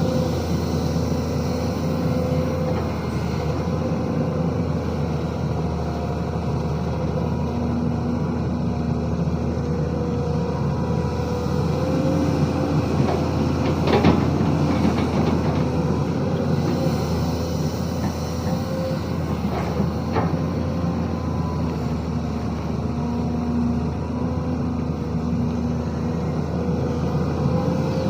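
SANY SY215C hydraulic excavator's diesel engine running steadily at working speed, with a couple of sharp knocks, the loudest about fourteen seconds in and another around twenty seconds.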